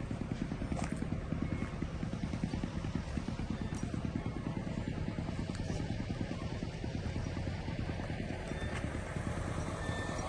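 An engine running steadily at low revs, with a fast, even low pulse.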